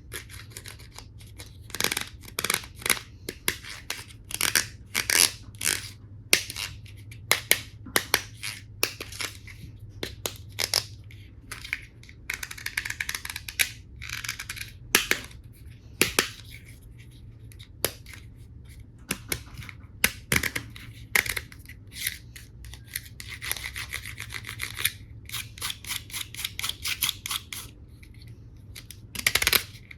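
Hard plastic toy tool pieces being handled, clicking and knocking together many times at an irregular pace, with two longer stretches of rubbing and rustling, about twelve seconds in and again in the second half.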